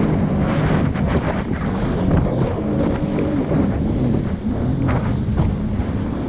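Jet ski engine running under way, its pitch wavering a little, with wind buffeting the microphone and short sharp hits now and then.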